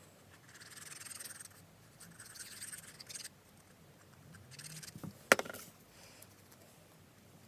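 Card stock rubbing and scraping as die-cut paper pieces are handled and pressed together to be glued, in three short stretches, with a sharp click a little after five seconds in.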